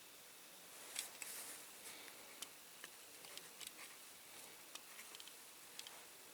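Near silence, with a few faint light clicks and taps from small parts being handled, the clearest about a second in.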